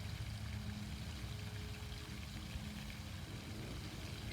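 Fountain water splashing steadily, with a faint steady low hum underneath.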